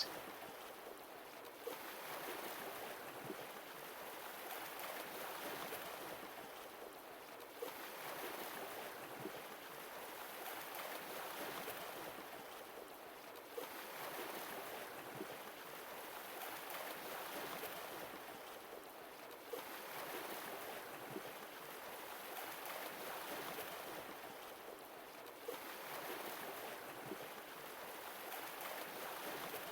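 Sea waves washing in and drawing back, each swell rising and falling about every six seconds.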